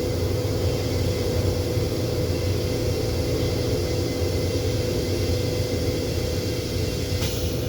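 Steady rumble and hiss of a Metro-North M7 electric railcar heard from inside the car, with a constant hum. Near the end the high hiss cuts off suddenly.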